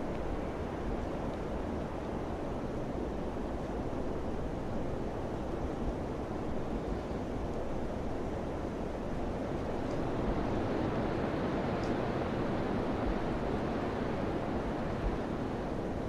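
Summer wind blowing in a steady rush that swells a little partway through.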